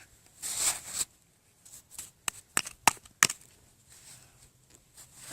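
Sand being scooped with a toy shovel into a plastic bucket: a scraping swish about half a second in, then a few sharp taps of the shovel on the bucket a couple of seconds later.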